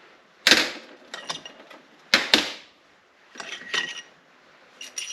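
Metal tools and engine parts clinking and knocking together as the cylinder head of a KTM 690 Duke single-cylinder engine is being taken off. There are several separate sharp strikes, each with a short metallic ring.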